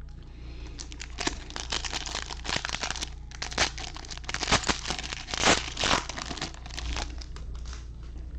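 Plastic wrapper of a 2021 Bowman Baseball hobby card pack crinkling and tearing as it is ripped open, in irregular crackling bursts from about a second in until near the end.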